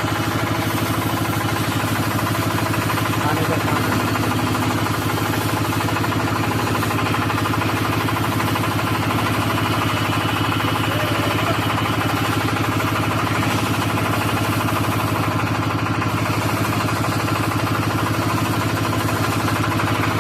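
An engine running steadily at a constant speed: an even drone with a fast regular pulse that does not change.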